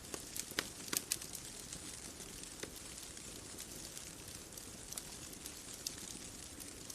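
Wood bonfire crackling, with a quick run of sharp pops in the first second and scattered pops after, over a steady soft hiss.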